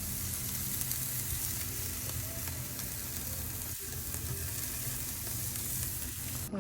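Ribeye steaks sizzling steadily on a small barbecue grill, a constant crackling hiss.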